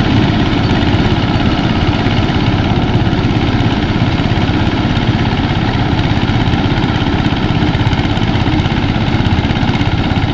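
Mini rice thresher running steadily: its small engine and threshing drum make a loud, even mechanical drone.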